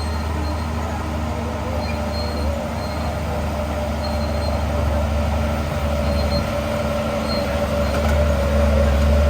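Diesel engine of heavy earthmoving machinery running steadily: a deep drone with a wavering higher whine above it, growing slightly louder near the end.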